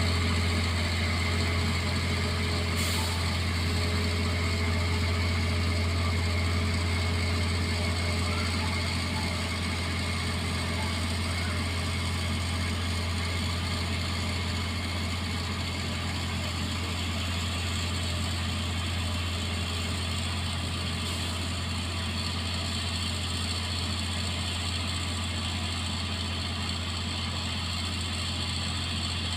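An engine idling steadily, a constant low hum with no revving.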